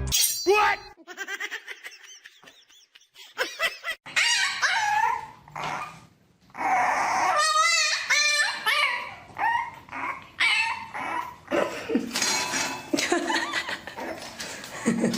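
Dogs barking and whining, with high pitched calls that rise and fall, broken by several sudden cuts.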